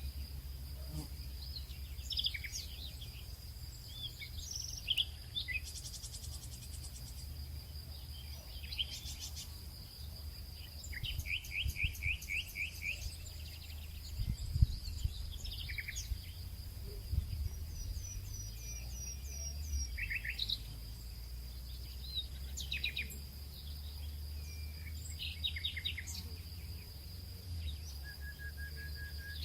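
Birds calling and singing, with several fast chirp series, over a steady high insect drone and a low rumble.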